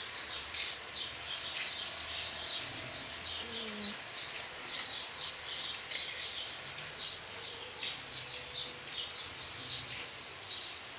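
Small birds chirping: many short, high chirps in quick succession, over faint background noise.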